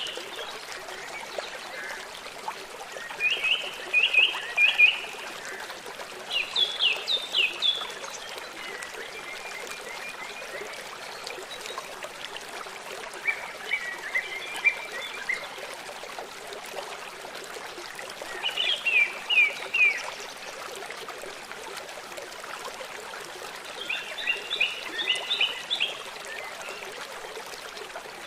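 Songbird singing short phrases of quick, descending notes, repeated about every four to five seconds, over the steady hiss of trickling running water.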